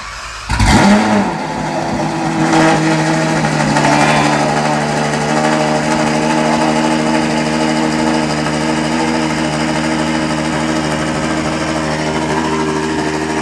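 A Ferrari 812's 6.5-litre naturally aspirated V12, breathing through a Novitec exhaust, starting from cold. After a brief crank the engine catches with a very loud flare about half a second in and surges again at about two and a half and four seconds. It then settles into a steady, loud high idle, the exhaust fully open as it runs its cold start.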